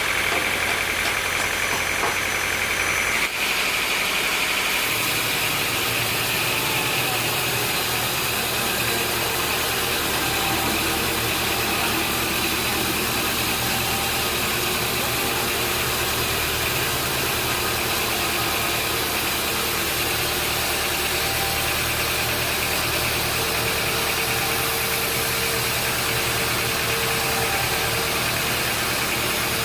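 Sawmill machinery running steadily: a continuous engine hum under a high, steady whine. The sound changes abruptly about three seconds in.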